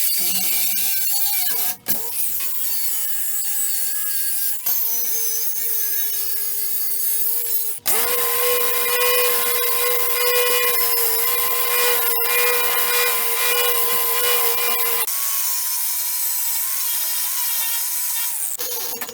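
Electric angle grinder running against steel, a steady high whine with a grinding hiss that sags a little in pitch as it bites, in several takes that break off sharply.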